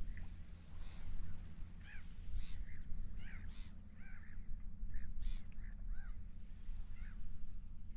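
Seagulls calling repeatedly in short, overlapping squawks, over a steady low rumble of wind and sea.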